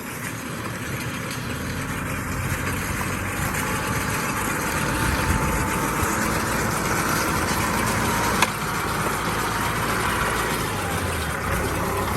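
Kubota tractor's diesel engine running steadily, gradually growing louder, with a single sharp click about eight seconds in.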